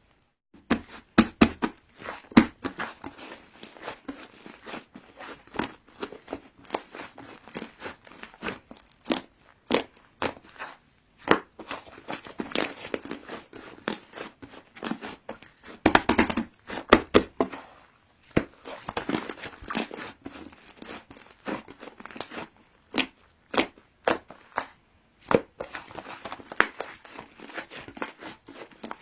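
Rapid, irregular clicks and crackling handling noises, busiest about a second or two in and again about sixteen seconds in.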